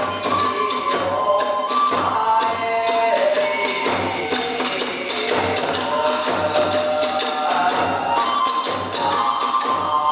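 Hiroshima kagura accompaniment: a taiko drum beating steadily under clashing hand cymbals, with a sliding, held melody line above.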